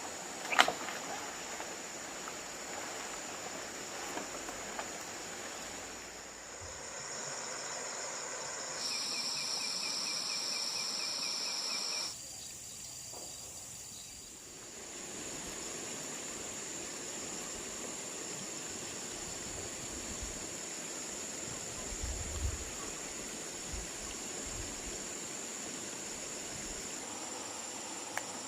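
Forest insects buzzing steadily at a high pitch. From about nine to twelve seconds in, a louder, pulsing insect call joins and cuts off abruptly. A single sharp snap just after the start is the loudest sound.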